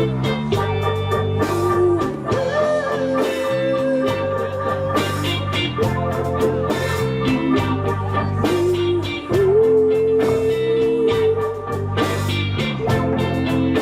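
Live band playing an instrumental passage: bass and drums keeping a steady groove under a guitar lead with two long held notes, each bent up into pitch, about two seconds and nine seconds in.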